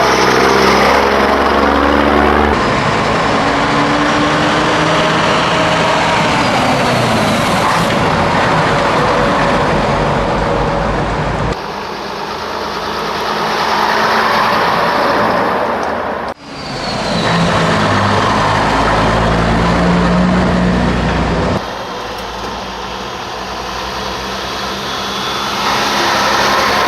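Scania diesel engine running on the move, its note rising and falling with the revs, heard in several short stretches joined by abrupt cuts.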